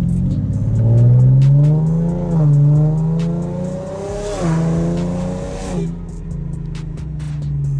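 Infiniti G37's 3.7-litre VQ V6 accelerating hard through the gears: the engine note climbs in pitch, then drops sharply at each of three upshifts, before settling to a steady cruise.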